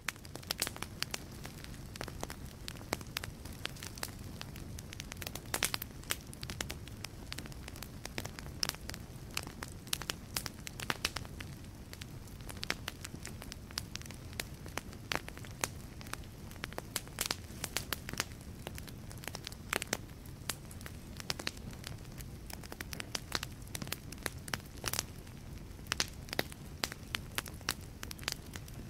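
Wood fire burning in a fireplace, with irregular sharp crackles and pops from the burning logs over a steady low rumble of the flames.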